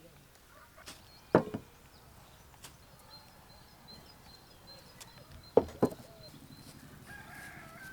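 Sharp chopping strikes on wood: one hit, then a quick pair about four seconds later.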